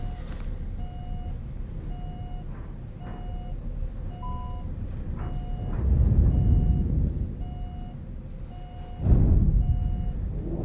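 Airbus A320 cockpit warning tone repeating in short, evenly spaced beeps during the loss of thrust on both engines, over a low rumble of airflow that swells loudly about six seconds in and again about nine seconds in.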